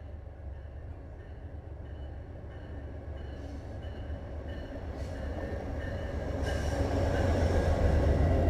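Diesel-hauled train approaching, its low engine and rail rumble growing steadily louder.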